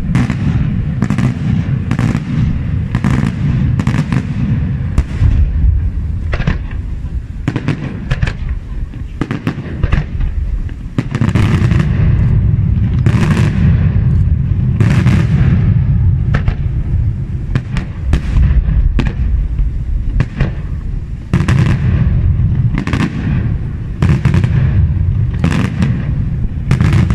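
Daytime fireworks: a rapid, continuous barrage of aerial shells bursting in sharp bangs over a rolling low rumble. It thins out briefly near the middle, then builds again.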